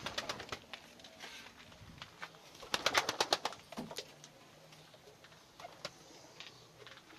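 Najafi ornamental pigeons cooing, with a quick run of sharp clicks about three seconds in.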